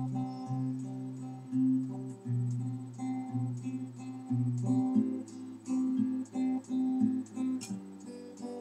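Acoustic guitar playing on its own between sung lines, a plucked and strummed accompaniment pattern over sustained low notes.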